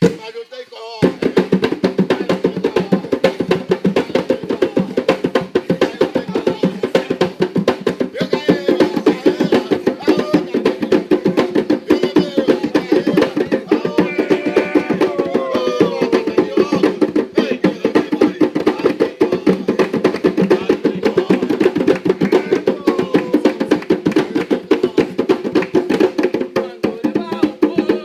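Atabaque hand drums playing a fast, steady rhythm that starts about a second in, with voices singing along underneath.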